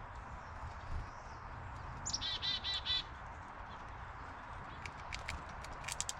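A bird calls a quick run of about five harsh, ringing notes about two seconds in. Near the end come several sharp taps or clicks.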